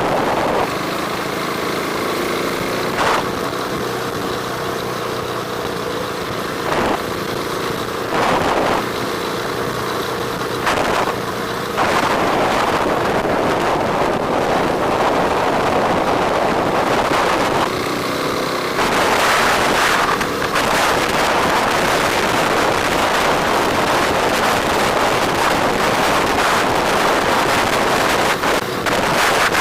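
Motorcycle engine running steadily while riding, with wind buffeting the microphone in gusts.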